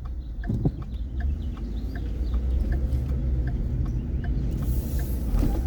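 Vehicle turn-signal indicator ticking evenly, about three ticks a second, over the low rumble of the engine and road noise inside the cab.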